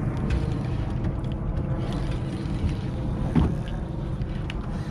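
Steady low rumble of a small fishing boat on the water, with wind on the microphone and a few light knocks.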